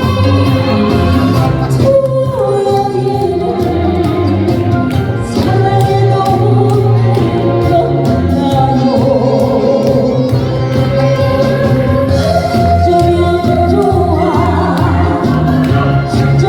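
A woman singing a song over musical accompaniment with a steady bass line.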